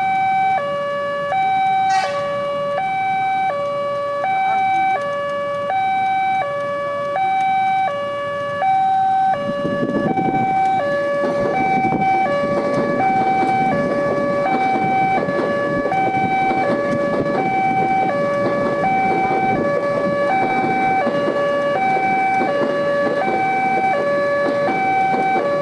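Railway level-crossing warning alarm sounding a steady two-tone signal, alternating between a lower and a higher pitch about every half second. About nine seconds in, the heavy rumble of a passing train joins it and continues under the alarm.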